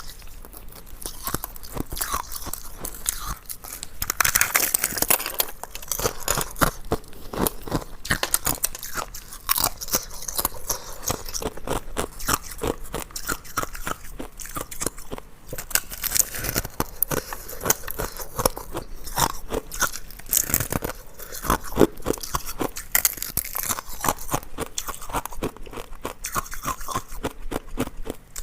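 Ice being bitten and chewed close to the microphone: a rapid, continuous crunching and crackling of hard ice between the teeth, with louder crunches now and then.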